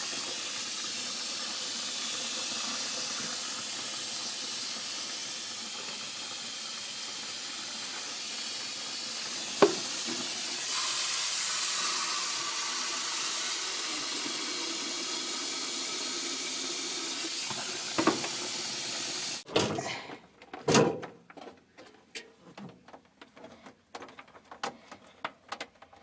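Heat gun blowing steadily as it melts the built-up ice in a freezer's clogged defrost drain, with a sharp click about ten seconds in. About twenty seconds in the gun cuts off, and a few knocks and clatters follow.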